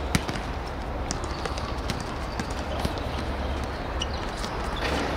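Irregular sharp taps and knocks of players' footsteps and ball contacts on a football pitch, over a steady low rumble.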